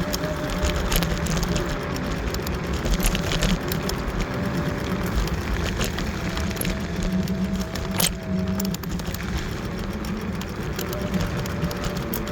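Wolf Warrior electric scooter riding over a rough dirt trail: a steady thin motor whine over a low rumble from the tyres and the ground, with many small clicks and rattles from stones and the frame.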